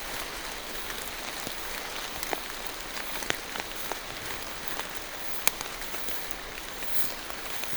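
Rain falling steadily through forest trees, an even hiss with scattered sharp drips of single drops landing close by. The sharpest drip comes about five and a half seconds in.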